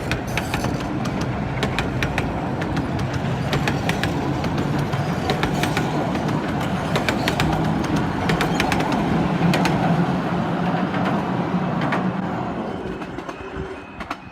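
Romney, Hythe & Dymchurch Railway 15-inch-gauge miniature train running, a steady rumble with rapid clicking of wheels over the rails; the noise dies down near the end.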